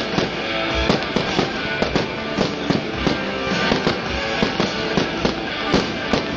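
Fireworks going off in quick succession, sharp bangs and crackles a few times a second, over loud music playing throughout.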